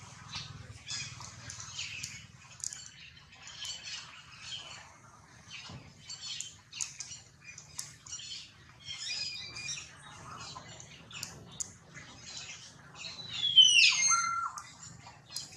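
Birds chirping and calling in short high notes, with one louder call that falls in pitch about thirteen and a half seconds in. A faint steady low hum runs underneath.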